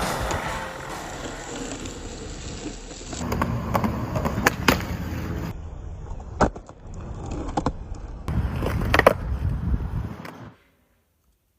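Skateboard rolling on concrete, a steady rumble of the wheels broken by several sharp clacks of the board. The sound cuts off suddenly near the end.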